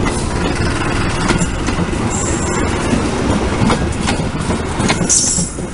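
Long-distance passenger train passing close, its wheels clacking over rail joints in a continuous loud rumble. Brief high squeals from the wheels come about two seconds in and again about five seconds in.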